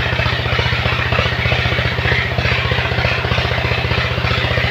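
Truck engine idling steadily with a fast, even throb.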